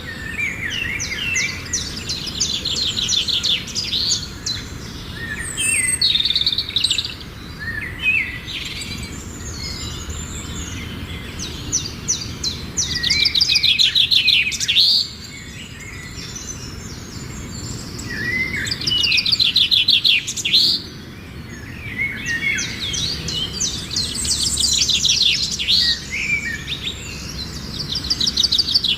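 Garden songbirds singing: a rapid trilled phrase a couple of seconds long repeats about five times, with shorter chirps between.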